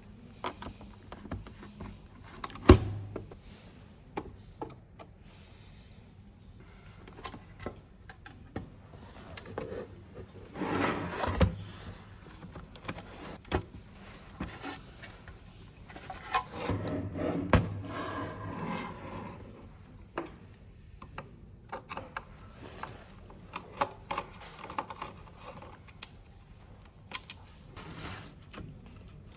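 Parts of a blood gas analyzer being handled and taken apart: scattered clicks and knocks, with one sharp knock near the start and two longer spells of rubbing and rattling in the middle.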